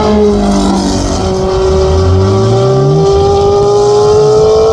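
Racing car engine at high revs, its pitch climbing steadily as the car accelerates up the hill, with an upshift just as the sound ends. A lower engine note rises briefly in the middle.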